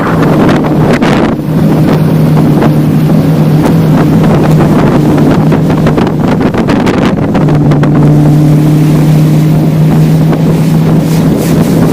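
Motorboat engine running steadily at speed, a constant low drone, with wind buffeting the microphone in irregular gusts.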